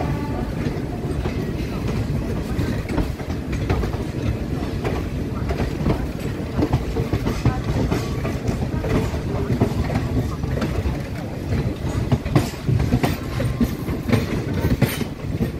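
Passenger train running along the track: a steady low rumble with the wheels clicking over rail joints, the clicks louder and sharper in the last few seconds.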